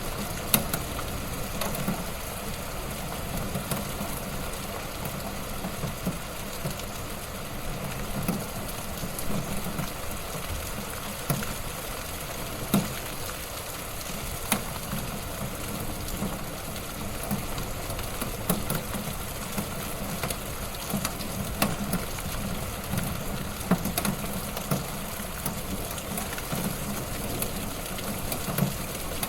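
Wood fire burning in a fireplace: a steady crackling hiss with sharp pops at irregular moments, a dozen or so standing out.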